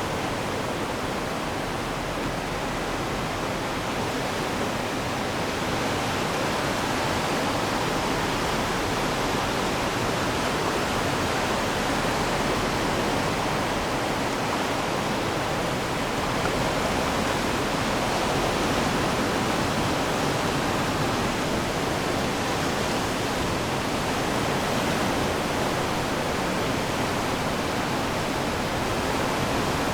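Ocean surf washing on the shore as a steady, even hiss, with no single wave crash standing out.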